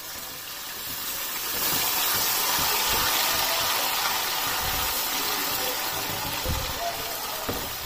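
Garlic-ginger and green chilli paste sizzling in hot oil in a stainless steel pan as it is stirred with a silicone spatula. The sizzle swells about a second and a half in, then slowly dies down.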